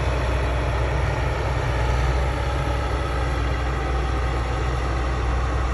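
Steady low rumble, like a vehicle or engine running, with no change in pitch or level.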